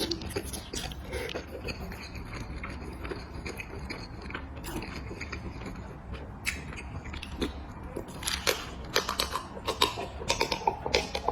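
A person chewing and biting food close to the microphone, with repeated short sharp clicks and crunches that come thicker and louder from about eight seconds in.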